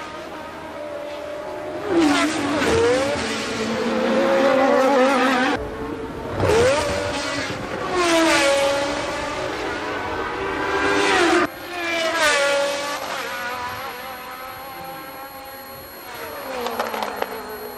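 1982 Formula One cars racing past one after another, several times over. Each engine note rises sharply under acceleration, then drops in pitch as the car goes by.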